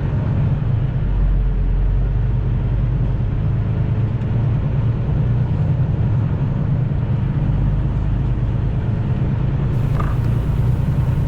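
Steady low rumble of a semi truck heard from inside the cab.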